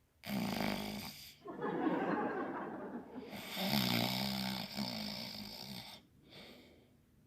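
A man's exaggerated, put-on snoring: three long snores, the last with a buzzing, pitched rattle, which fades out about six seconds in.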